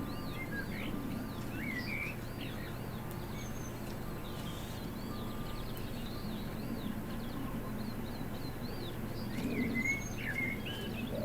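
Small garden birds chirping and twittering: a run of quick, high, looping notes repeated over and over, with scattered chirps, over a steady low background hum.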